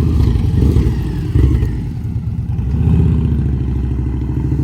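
Motorcycle engine running with a steady low pulsing, briefly louder about a second and a half in.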